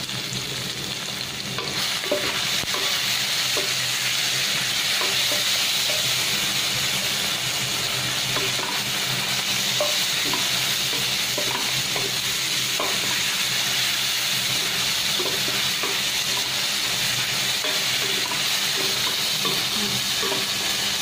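Onions, garlic and tomatoes sizzling in hot oil in a stainless steel pot while a wooden spatula stirs them, scraping and tapping the pan in many small clicks. The sizzle gets louder about two seconds in.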